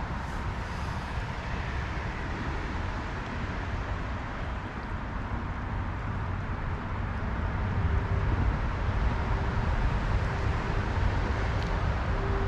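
Steady rush of flowing stream water, with a low rumble that gets louder about eight seconds in.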